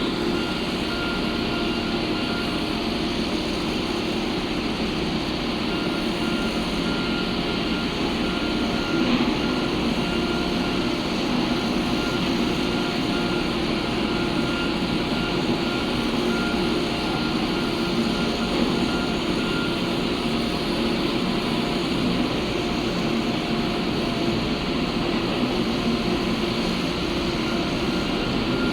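Heavy construction machinery, such as a foundation drilling rig, running steadily, with a high-pitched alarm tone sounding through most of it and breaking off twice.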